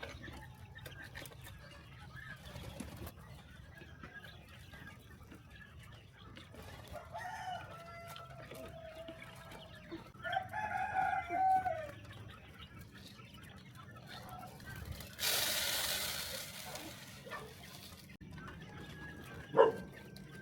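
Rooster crowing twice: a shorter crow about seven seconds in and a longer, louder one about ten seconds in. A rush of noise lasting about three seconds follows later, and a sharp knock comes near the end.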